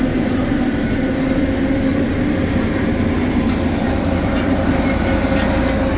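Heavy diesel road-building machinery running steadily, a loud low rumble with a constant hum.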